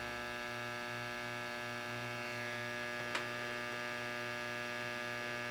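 Steady mains hum, with a buzzy edge, from the speaker of a 1948 Emerson model 543 AA5 tube radio while its program falls silent. A faint tick comes about three seconds in.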